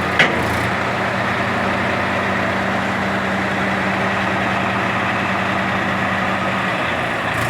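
Tractor loader engine running steadily at a constant speed, with one brief sharp knock just after the start.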